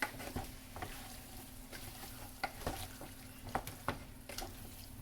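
A spoon stirring chicken drumsticks and onions frying in oil and butter in a pot, knocking and scraping against the pot at irregular moments over a faint sizzle.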